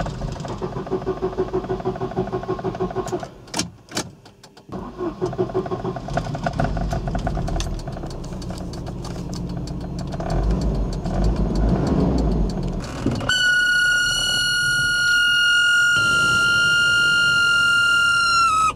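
Volvo 940 Turbo's four-cylinder engine cranked by the starter in even pulses, about five a second, pausing briefly with a few clicks, then cranking again until it catches and runs, rising a little. About two-thirds of the way in, a loud, steady high-pitched whine starts, which the owner puts down to the fan; it dips slightly in pitch as it cuts off near the end.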